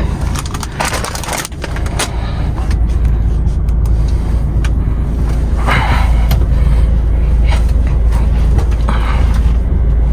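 Steady low rumble of a truck's engine, with a few brief noisy bursts about a second in, around six seconds in and near the end.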